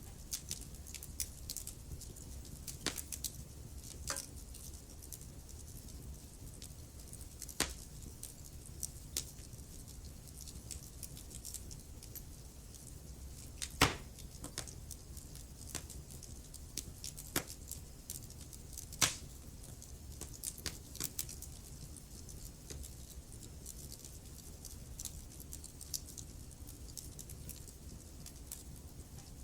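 Wood fire burning in a fireplace: a low steady rumble of flames with irregular crackles and pops from the logs, one sharper pop about halfway through.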